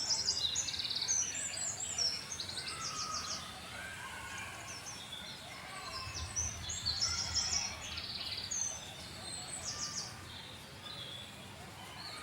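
Several small birds chirping and trilling in quick, high notes, busiest at the start and again around the middle, over a faint steady outdoor background.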